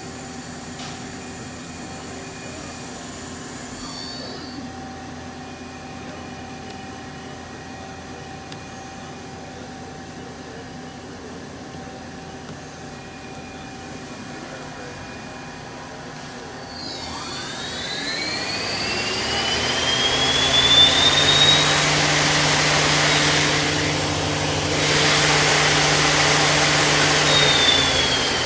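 1998 Mazak Quick Turn 30 CNC lathe humming steadily. About two-thirds of the way in, its spindle spins up with a rising whine and runs loud at speed, then begins to wind down with a falling whine near the end.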